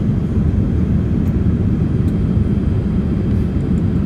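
Boeing 787 cabin noise in flight: a steady low rumble of engines and airflow.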